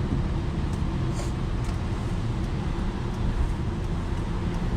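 Steady low road and engine rumble heard inside a moving car's cabin while it drives in traffic.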